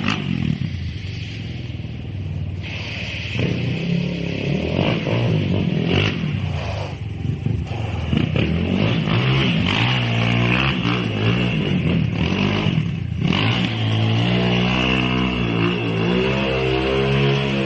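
Off-road motorcycle engines revving and running, the pitch rising and falling with the throttle, steadier in the second half.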